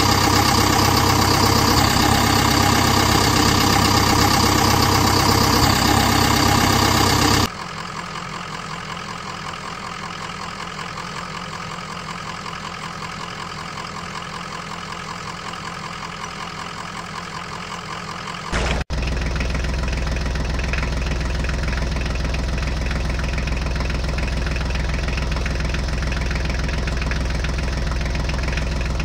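Steady engine idling. About seven seconds in it cuts abruptly to a quieter engine sound, and after about eighteen seconds it jumps to a louder, deeper one.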